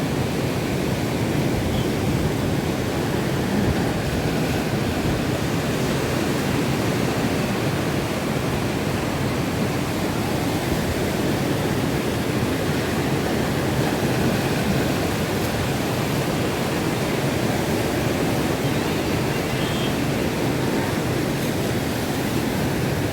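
Rough monsoon sea in strong wind: surf breaking continuously as a steady, unbroken rush of noise.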